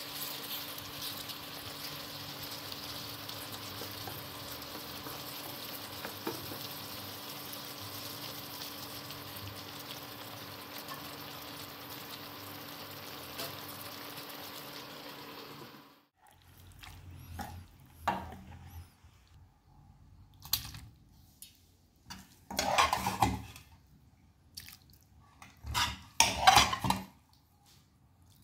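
Mushroom and capsicum curry sizzling steadily in a nonstick wok for about sixteen seconds, then stopping abruptly. After that come a few scattered clinks and scrapes of utensils against a steel serving bowl, the loudest near the end.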